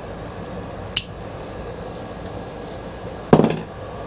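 Two metal clinks as small ceiling-fan parts are set or dropped down: a light, sharp one about a second in and a louder clank near the end, over a steady low hum.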